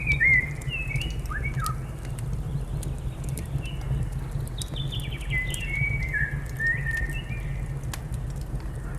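Birds singing short whistled, gliding phrases and chirps, busiest over the second half. Underneath is a steady low rumble, with scattered sharp crackles like a wood fire.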